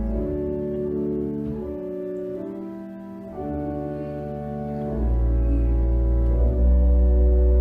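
Organ playing slow, sustained chords. The deep pedal bass drops out just after the start and comes back, louder, about five seconds in.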